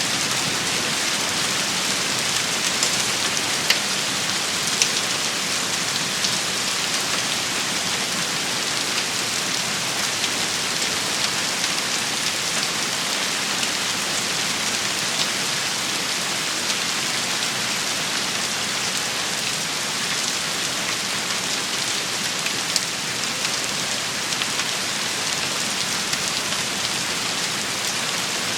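Steady, even rain shower falling on a hard surface, with a few sharper single ticks standing out now and then.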